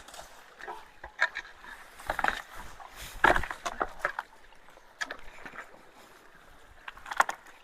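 Water splashing and sloshing in irregular bursts, with a few knocks, as debris is worked loose in a clogged culvert's flowing water, over a faint steady rush of water.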